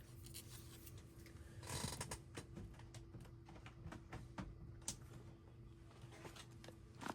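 Faint clicks and a brief rustle of paper and small craft supplies being handled on a tabletop, over a low steady hum.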